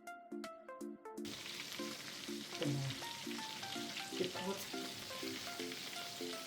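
Chicken pieces frying in hot oil, a steady sizzle that comes in about a second in, under background music with a regular repeating pattern of notes.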